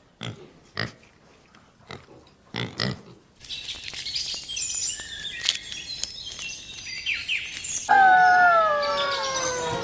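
Animal calls: a few short sharp snorts or grunts, then high chirping, then about eight seconds in a loud, long call that slides steadily down in pitch.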